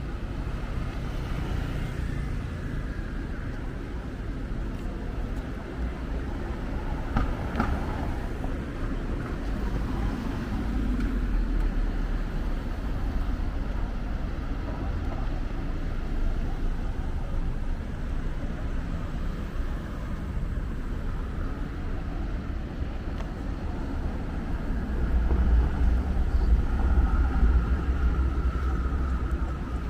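City street traffic: a steady rumble of cars passing, growing louder about 25 seconds in.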